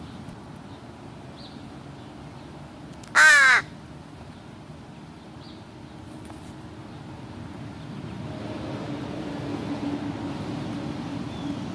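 An American crow gives a single loud, harsh caw about three seconds in. From about eight seconds a low, steady vehicle engine hum builds up.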